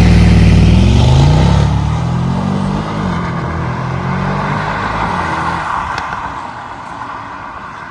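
Mercedes-AMG GLE63S twin-turbo V8 accelerating hard. The engine pitch climbs, drops once and climbs again in the first three seconds, and the sound then fades steadily as the SUV pulls away.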